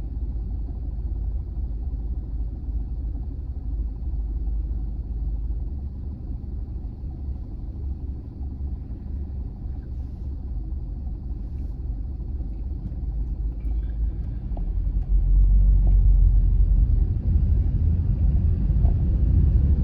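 Low, steady road and engine rumble inside the cabin of a Honda Freed minivan being driven, growing louder about three-quarters of the way through.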